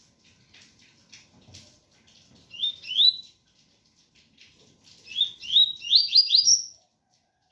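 Double-collared seedeater (coleiro) singing the 'tui-tui' song: short, clear rising whistles, a pair of notes about a third of the way in, then a quick run of five or six rising notes near the end. Faint rain patters behind the song.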